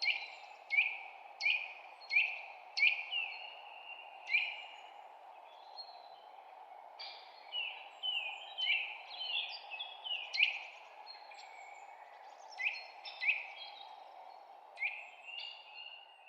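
Songbirds chirping: a run of quick chirps, each sliding sharply down in pitch, coming irregularly and sometimes overlapping, over a steady low background hiss.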